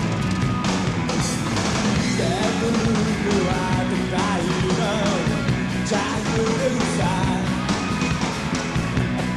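Rock band playing a song at a steady level, with a sliding, wavering melody line over the band from about two seconds in.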